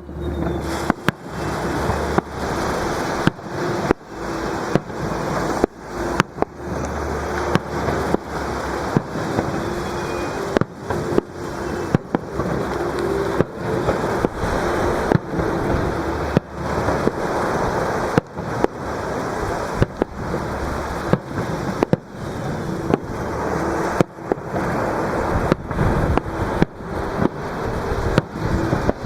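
Fireworks display: aerial shells bursting in quick, irregular succession, dozens of sharp bangs with a continuous rumble and crackle between them.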